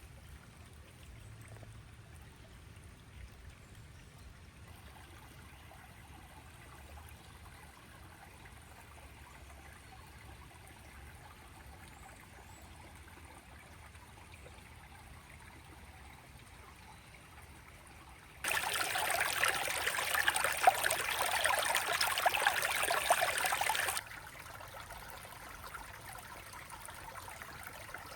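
River water flowing, faint at first. About two-thirds of the way through, a loud rush of water starts abruptly, lasts about five seconds and cuts off just as suddenly, leaving a softer steady flow.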